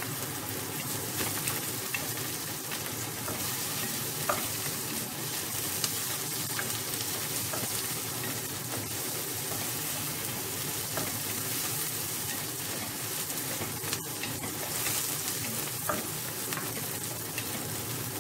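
Sliced onion and garlic sizzling in oil in a pot while a wooden spatula stirs them, with a few sharp knocks of the spatula against the pot.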